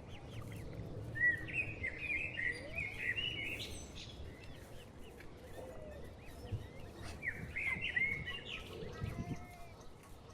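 A small songbird singing: two quick, warbling phrases of rapid chirping notes, one starting about a second in and another around seven seconds in.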